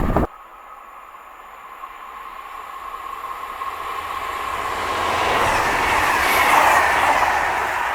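A regional passenger train approaching and passing along the line, its rail and running noise building steadily to a peak about six and a half seconds in and then easing off. A louder sound cuts off abruptly just at the start.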